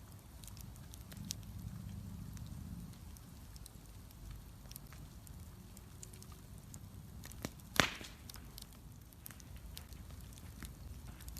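Bonfire burning with a low steady rumble and scattered small crackles, and one loud sharp pop about two-thirds of the way through.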